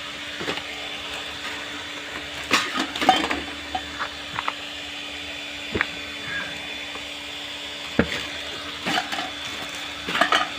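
Scattered knocks and short clatters as the parts of a washing machine are handled and moved, over a faint steady hum.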